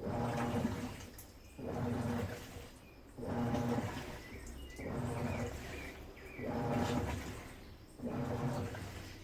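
Midea Wave-Agitator top-load washing machine agitating: the agitator turns one way and then the other, churning water and clothes in a surge about every one and a half seconds.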